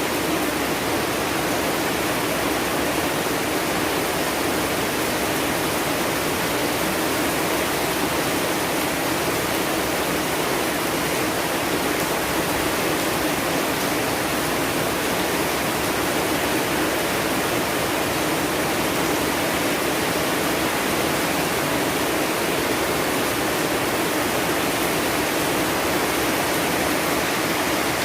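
Steady heavy rain: a loud, even, unbroken hiss of falling water with no single drops or changes standing out.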